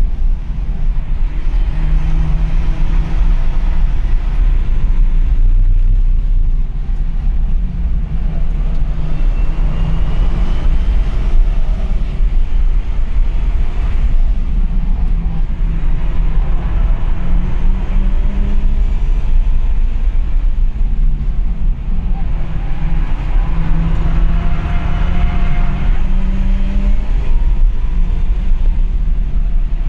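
BMW's engine under load, heard inside its caged cabin over a heavy, steady road and wind rumble. The revs climb and drop repeatedly as the car accelerates and lifts off on the circuit.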